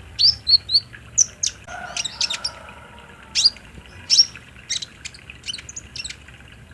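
A kolibri ninja sunbird singing: sharp, high chirps, most sliding downward, given in quick irregular runs. A fainter warbling of lower notes comes in a little under two seconds in.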